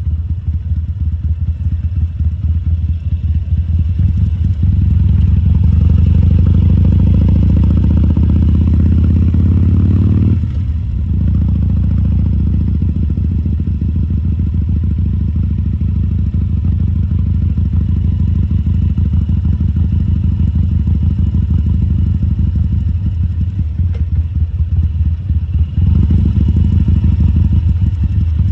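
Harley-Davidson Sportster XL1200C's air-cooled V-twin engine running at low riding speed. It gets louder about five seconds in, drops off briefly just past ten seconds, then picks up again and runs steadily, swelling again near the end.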